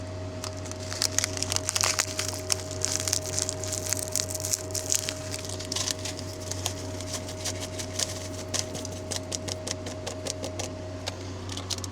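Plastic packet of dried vegetable flakes crinkling as it is opened and emptied into an instant ramen bowl: a dense run of small crackles and rustles that thins out toward the end, over a steady hum.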